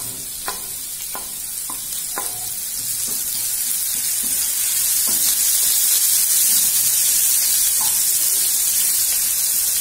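Chopped green chillies sizzling in hot oil with fennel seeds and garlic, stirred with a wooden spatula. A few light taps of the spatula come in the first couple of seconds, and the sizzle grows louder from about three seconds in.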